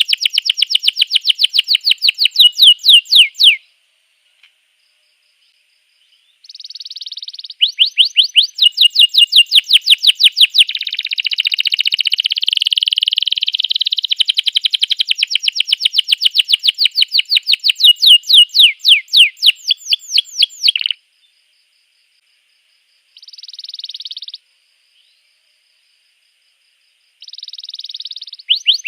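Domestic canary singing: long phrases of rapid, evenly repeated downward-sweeping trill notes. It stops about three and a half seconds in, resumes for a long phrase of about fourteen seconds, then gives two short bursts near the end.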